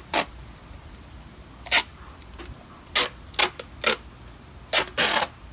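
Duct tape being pulled off the roll and torn in a series of short, sharp rips, about seven in all, the longest near the end.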